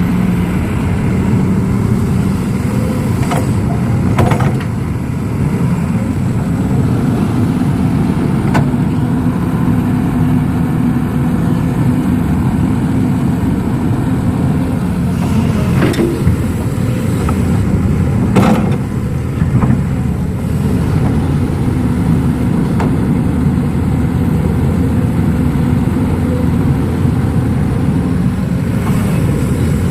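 Heavy diesel engine of earthmoving machinery running steadily under work, with several sharp knocks and clanks scattered through.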